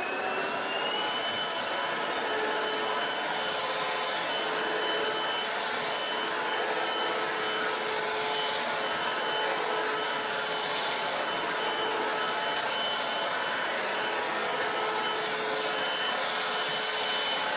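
Hoover CRUISE+ cordless stick vacuum running on carpet. Its motor whine climbs as it reaches full speed about a second in, then holds steady over the rush of air.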